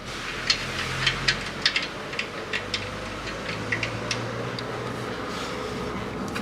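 Hand tools clinking as they are picked up and handled: a dozen or so light, irregular metallic clicks over a steady low hum.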